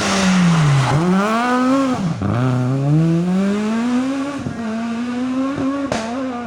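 Rally car engine on a special stage: revs drop about a second in, then climb, cut briefly at a gear change about two seconds in, and rise again hard before holding fairly steady, with quick dips near the end.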